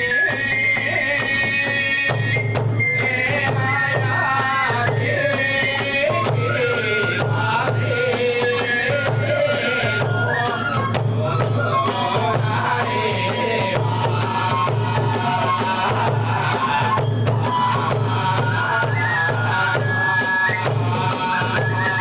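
Kagura hayashi music: a bamboo flute holds a melody that steps in pitch over a steady pulse of drum beats and rapid clashing of small hand cymbals.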